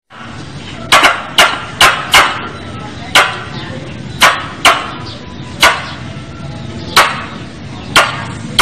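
A squirrel calling: about ten sharp, loud chip-like calls, irregularly spaced and sometimes in quick pairs. This is the kind of call played as a lure to draw squirrels in.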